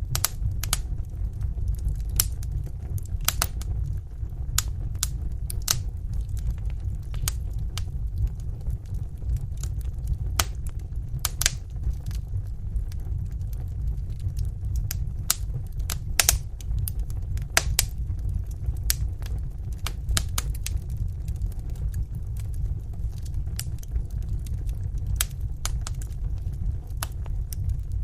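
Wood fire burning in a fireplace: a steady low rumble of flames with frequent sharp, irregular crackles and pops of burning logs.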